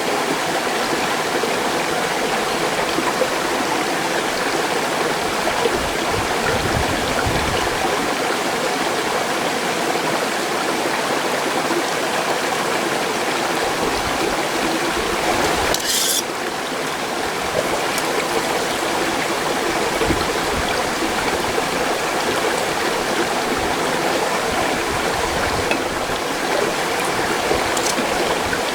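Mountain stream rushing over rocks, a steady even noise of running water. About halfway through comes one brief sharp, high-pitched hiss.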